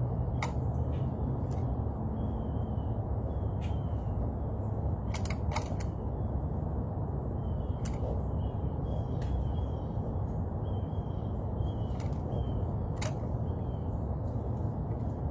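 Steady low background rumble with a scattered handful of sharp clicks and faint, short, high bird chirps.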